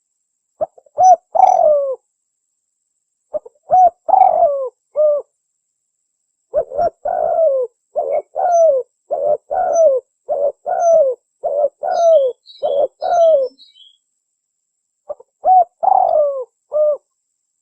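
Spotted dove (tekukur) cooing: short phrases of low coos separated by pauses, with a longer run of rapid coos, about two a second, in the middle. Faint high chirps of another small bird can be heard near the middle.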